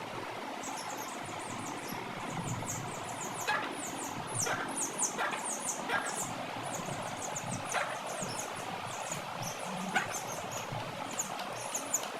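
Many small birds chirping: rapid, high-pitched cheeps overlapping one another, with a few sharper peeps standing out from about three and a half seconds in.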